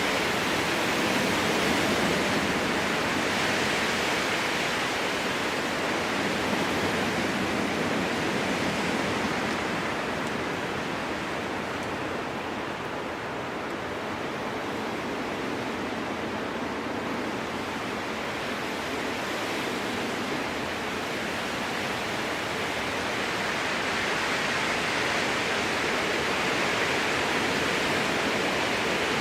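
Strong wind blowing through a spruce forest: a steady rushing that eases in the middle and swells again near the end.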